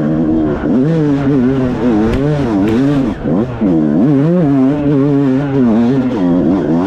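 Dirt bike engine revving, its pitch swinging up and down over and over as the throttle is opened and backed off.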